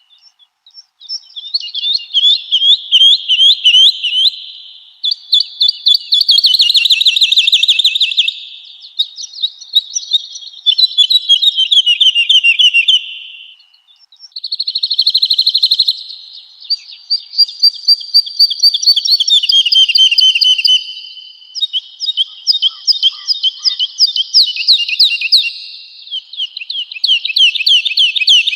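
Woodlark singing: phrase after phrase of rapid repeated notes, many falling in pitch, each phrase a few seconds long with short pauses between.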